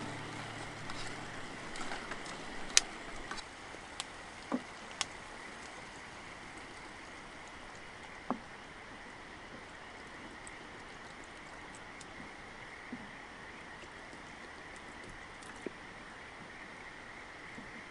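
Steady rush of a river flowing past, with a faint steady high hum and a few sharp clicks and pops scattered through, the loudest about three seconds in.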